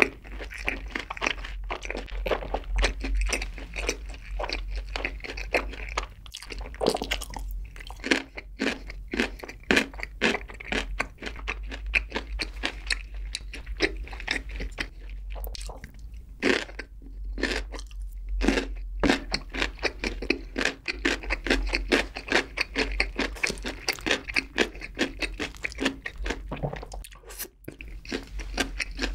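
Close-miked chewing and crunching of sweet-sauced fried chicken and cubed radish kimchi (kkakdugi), a dense run of wet crackles and crunches that never stops for long.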